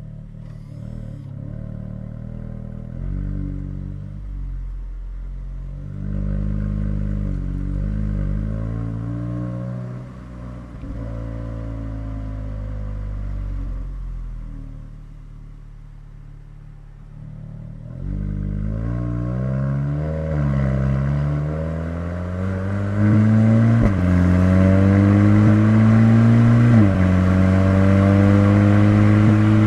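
VW Golf 8 GTI Clubsport Edition 45's turbocharged 2.0-litre four-cylinder through its Akrapovic exhaust, engine speed rising and falling under light throttle. About two-thirds of the way in it accelerates hard and gets louder, the pitch climbing and then dropping sharply at two upshifts near the end.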